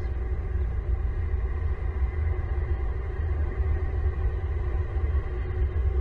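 Steady low rumble with a faint hiss above it, even throughout; no distinct calls or knocks stand out.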